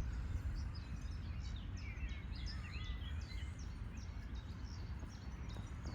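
Small birds chirping, many short high calls, busiest a couple of seconds in, over a steady low rumble.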